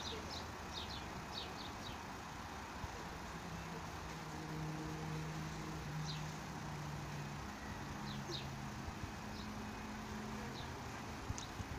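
Small birds chirping in short, quick calls over a steady outdoor hum, with a low drone that steps up and down in pitch through the middle.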